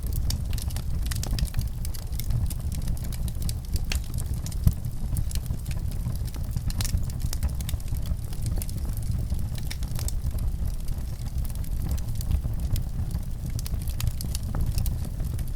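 Wood fire crackling in a fireplace: frequent small sharp pops over a steady low rumble, with one louder pop about five seconds in.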